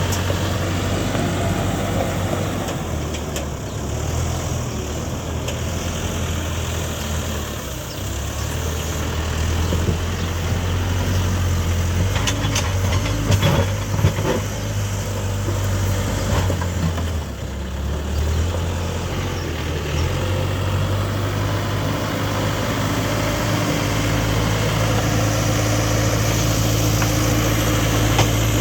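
Backhoe loader's diesel engine running under varying load, its note rising and falling as it works, with a few sharp knocks about halfway through.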